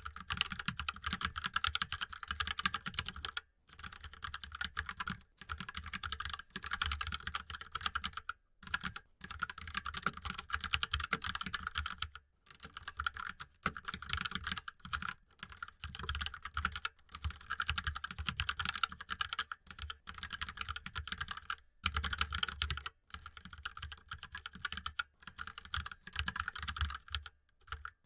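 Fast typing on a mechanical keyboard: a dense run of key clicks, broken by brief pauses every few seconds.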